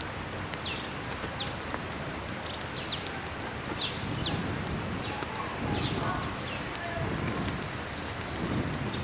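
Wild birds singing, with many short, high chirps that slur downward, over the steady rush of a running creek.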